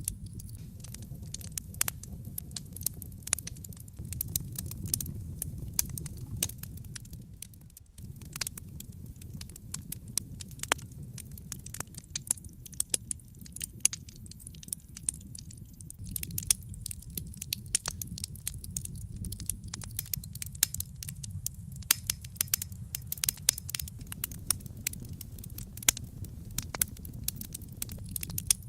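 Wood fire burning in a fireplace: a steady low rumble of flame under constant sharp crackles and pops from the burning logs. The sound drops away briefly about eight seconds in.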